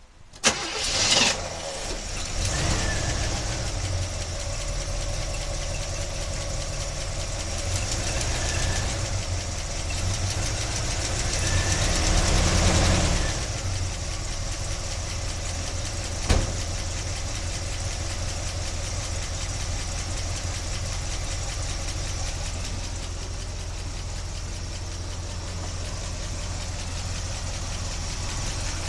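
A 1976 Chevy Blazer's engine starts about half a second in and settles into a steady idle. It picks up speed for a couple of seconds around the middle, then drops back to idle, with one sharp click a little later.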